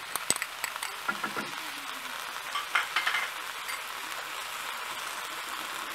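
Shrimp, onion and bell peppers sizzling steadily in a hot wok, with a few sharp knocks and scrapes of the spatula against the pan in the first second and again about three seconds in.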